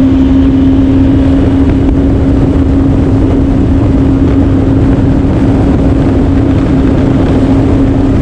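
2019 Yamaha FX SVHO jet ski's supercharged four-cylinder engine running at a steady high pitch, held at constant throttle, over a constant loud rushing noise.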